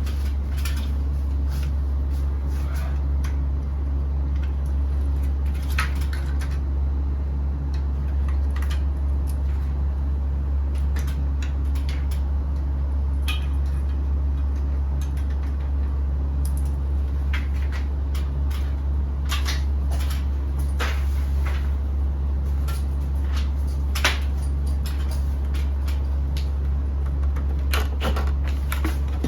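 Scattered clicks and knocks of parts being handled over a steady low hum, typical of work on a ceiling-cassette air conditioner.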